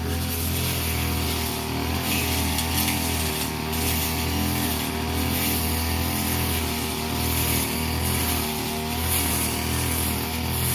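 Handheld brush cutter engine running steadily under load, its pitch wavering slightly, with a high hiss that swells and fades as the cutter works through grass.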